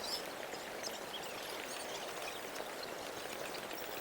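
Steady, even hiss of outdoor ambience, like running water or light rain, with faint high ticks scattered through it.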